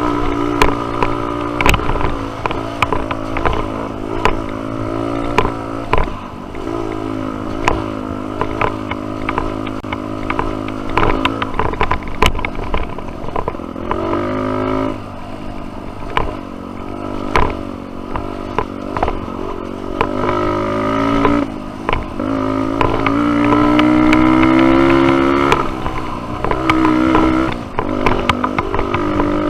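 Dirt bike engine on a trail ride, its pitch rising and falling again and again with the throttle and held high for a few seconds near the end, with frequent sharp knocks and clatter throughout.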